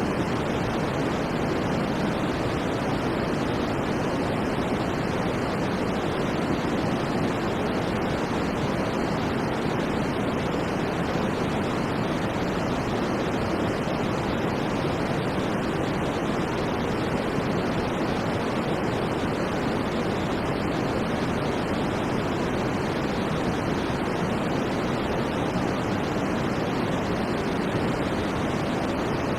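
Steady white noise: an even, unchanging hiss, fuller in the low and middle range than in the highs.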